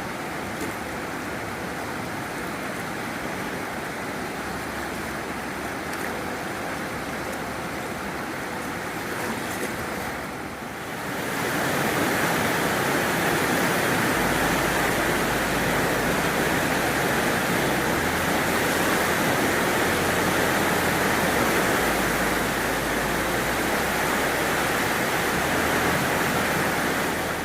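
Swollen Ōi River in flood after a typhoon, its fast water rushing with a steady noise. After a brief dip it grows louder about eleven seconds in.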